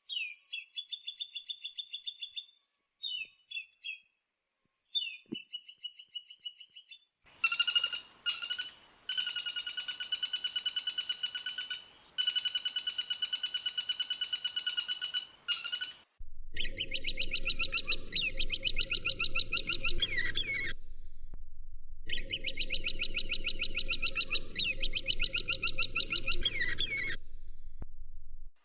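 Woodpecker calls: bursts of fast, high, rattling trills, each one to five seconds long with short gaps between. The last two bursts run over a low hum.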